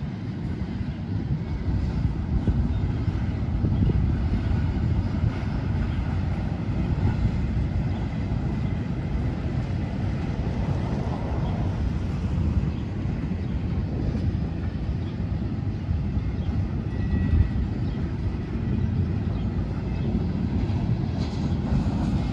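Freight train of autorack cars rolling past: a steady low rumble of steel wheels on the rails, growing a little louder in the first couple of seconds and then holding.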